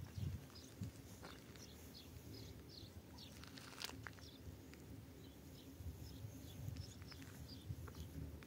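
Faint, scattered chirps of small birds over a low, steady rumble, with one sharp click about four seconds in.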